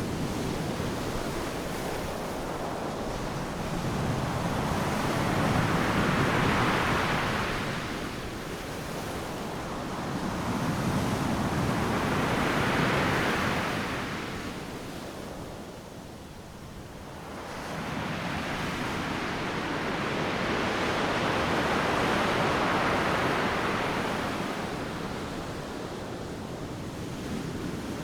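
Ocean surf breaking on a beach: a continuous wash of noise that swells as each wave crashes and ebbs between them, with three big surges and a brief lull about halfway through.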